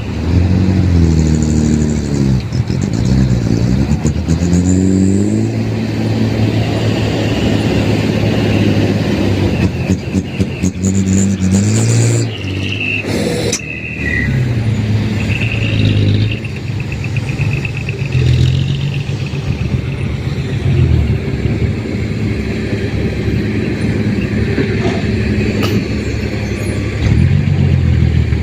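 Diesel dump truck engine running and revving up and down several times, with steadier running between the revs.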